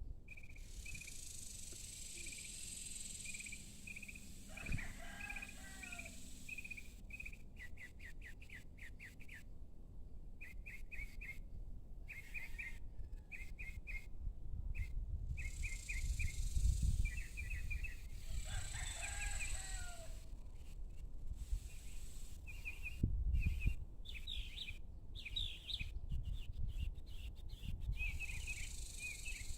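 Evening bird chorus: small birds chirping in quick repeated runs, with two longer falling calls, about five seconds in and about nineteen seconds in. Low rumbles come and go around seventeen and twenty-three seconds in.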